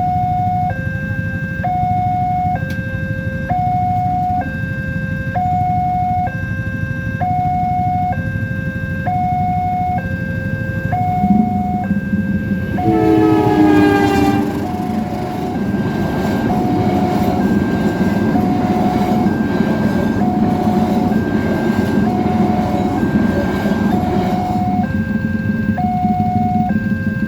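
Railway level-crossing alarm sounding a two-tone alternating warning, about one high-low cycle a second. About 13 s in a diesel locomotive's horn blows with a falling pitch, then the train runs past with a steady rumble of engine and wheels while the alarm keeps going.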